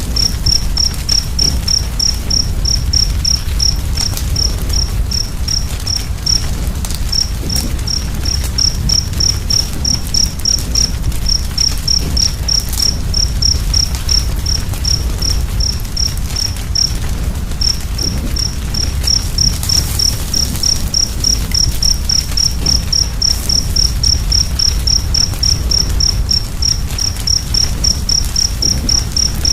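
A cricket chirping steadily, short high chirps about three a second, pausing briefly twice, over a loud, steady low rumble.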